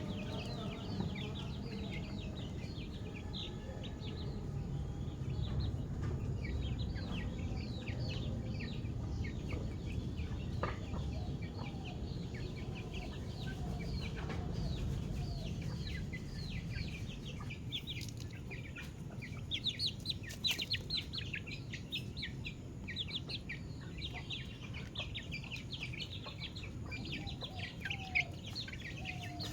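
Baby chickens (chicks) peeping: many short, high chirps overlapping without a break, busiest about two-thirds of the way through. A steady low rumble runs underneath.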